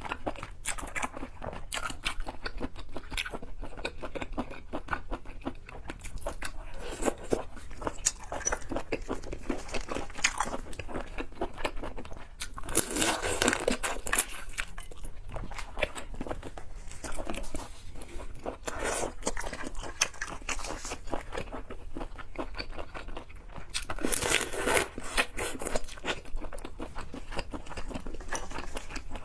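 A person chewing and biting seafood close to the microphone, with crisp crunching and wet clicking throughout. There are two louder spells of crunching, one a little before the halfway point and one about four-fifths of the way through.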